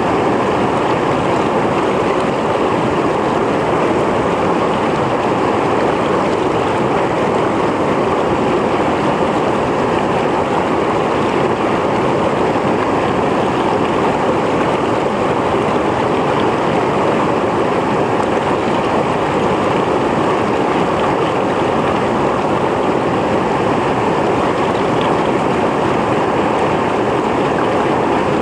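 Mountain stream flowing over rocks: a steady, even rush and splash of water that doesn't change.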